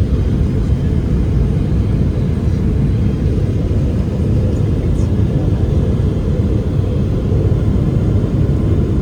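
Steady low rumble of airliner cabin noise inside a Boeing 777-300ER.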